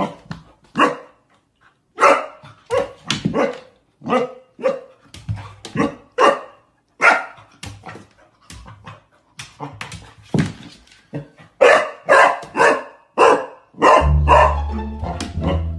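A dog barking over and over at an uneven pace, about twenty short barks. Background music comes in near the end.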